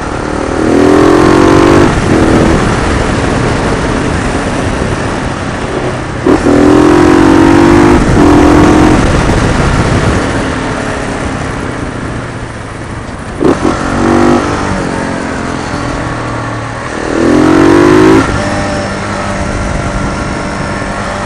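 Motorcycle engine under hard acceleration on a ride, pitch climbing in four loud bursts with drops between them as the throttle closes or the rider shifts, over a steady rush of wind and road noise.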